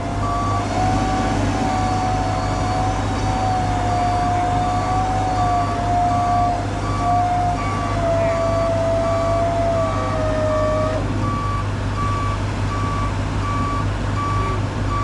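A 9,000-pound electric winch on a Jeep Gladiator pulling hard under load, its motor whine steady, then sagging slightly in pitch before it stops about eleven seconds in; it is being worked hard and run in short spells so it does not overheat. A truck's reversing alarm beeps steadily throughout over a low idling engine hum.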